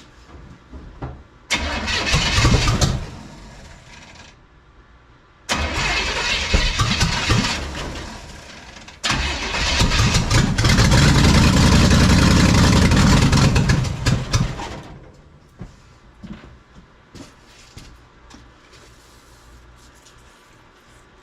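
NASCAR small-block V8 being cranked on the starter three times, the third try the longest at about five seconds, then cutting off. It struggles to start because the engine-driven fuel pump has not yet primed the carburettor.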